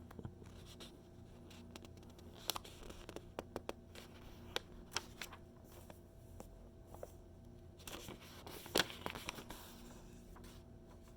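Magazine pages being handled and turned: scattered small paper crackles and ticks, then a louder rustle of a page turning about eight to nine seconds in.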